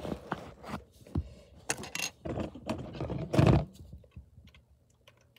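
Small plastic Lego pieces being handled and shuffled, a quick run of clicks and clattering rattles with the loudest clatter at about three and a half seconds, then only a few faint ticks.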